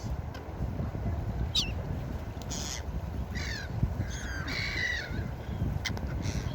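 Gulls calling: a series of short cries, one longer drawn-out call about four seconds in, over a steady low rushing background.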